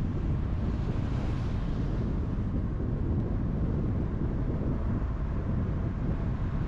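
Steady road and wind noise of a car driving on a highway: an even low rumble with a faint hiss that swells briefly about a second in.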